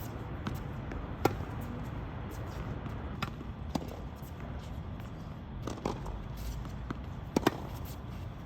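Tennis ball being struck by rackets and bouncing on the court during a rally: a string of sharp pops, the loudest about a second in and two close together near the end.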